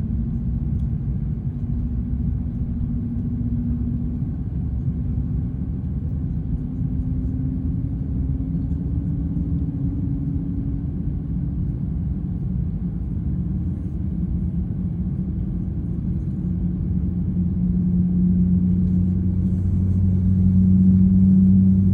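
Airbus A330-300 engine start: a steady low rumble with a faint whine slowly rising in pitch, then a stronger steady hum that grows louder near the end as the engine spools up.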